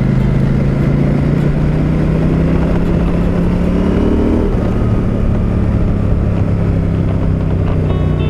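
KTM 890 Adventure R Rally's parallel-twin engine pulling under way, its pitch climbing slowly, dropping sharply about four and a half seconds in, then holding steady.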